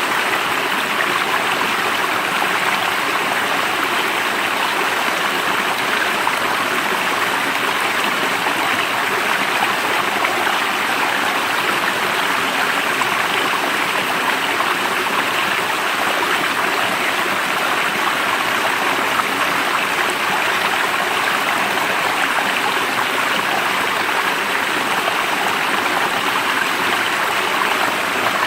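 Stream water flowing in an even, unbroken wash.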